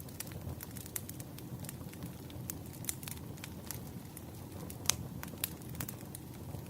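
Wood fire crackling: irregular sharp pops and snaps of burning logs over a low steady rumble, with one louder pop about five seconds in.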